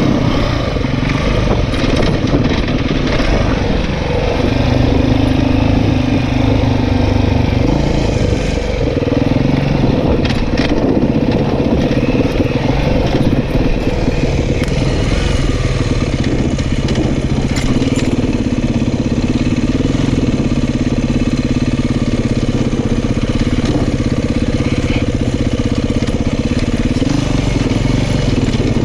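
Off-road dirt bike engine running while riding a trail. The engine note holds steady for several seconds at a time, then drops and picks back up a few times as the throttle changes, over a constant rush of noise.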